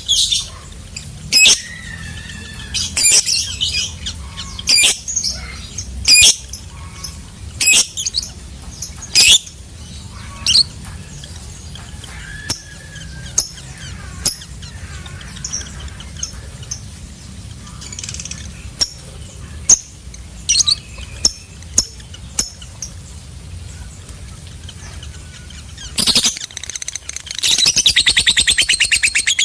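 Lovebird calling: loud, sharp, high chirps about every second and a half, then softer scattered chirps, and near the end a long, fast, chattering trill, the 'ngekek' that keepers prize in a singing lovebird.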